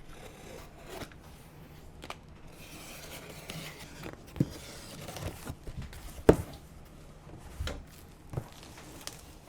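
Cardboard shipping box being opened by hand: packing tape tearing and cardboard rubbing, with several sharp knocks of handling, the loudest about six seconds in.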